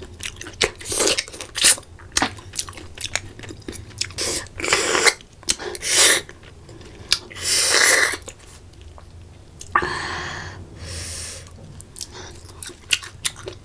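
Close-miked chewing and mouth sounds of a person eating spicy water snails (ghungi): wet smacks and clicks, with several louder noisy bursts of about half a second to a second.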